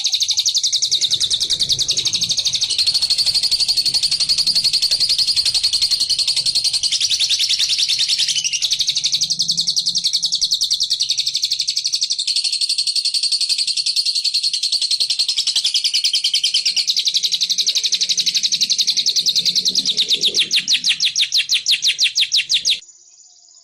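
Lovebird 'ngekek' song: one long, unbroken, very rapid high-pitched chattering trill, which cuts off abruptly near the end.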